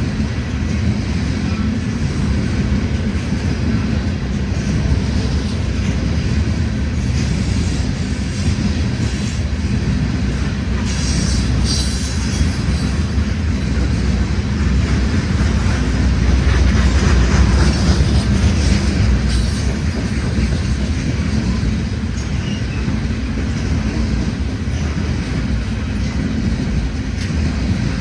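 A CN freight train rolling past, its wheels rumbling and clattering steadily on the rails. There is a short burst of harsher high-pitched wheel noise about twelve seconds in, and the sound swells loudest in the second half.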